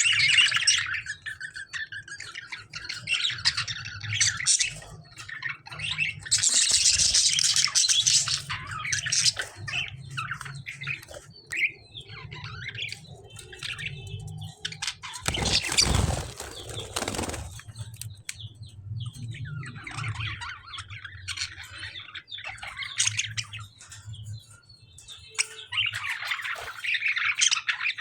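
Budgies and lovebirds chirping in repeated high bursts. There is a loud rustling burst about halfway through, typical of wing flapping.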